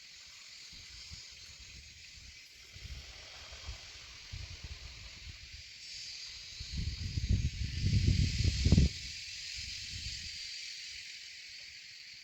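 A steady high hiss, with irregular low rumbling on the microphone that swells to its loudest about seven to nine seconds in and stops abruptly.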